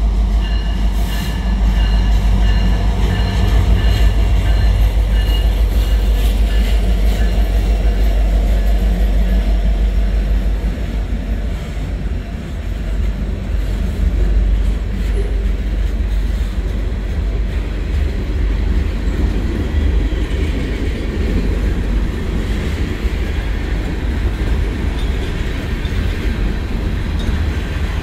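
Norfolk Southern manifest freight train passing close by. The diesel locomotives' heavy engine rumble dominates for the first ten seconds or so, then the freight cars roll past with steady wheel-on-rail noise.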